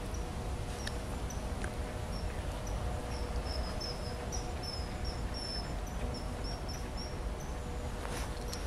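A bird gives short, high, thin calls, at first spaced out, then coming in a quick run of about a dozen notes through the middle. Under them run a constant low rumble and a faint steady hum, with a brief rustle near the end.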